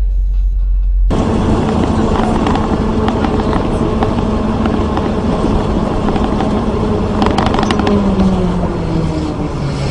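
Car driving on a road: steady tyre and engine noise that starts suddenly about a second in, with the engine note falling gradually near the end as the car slows.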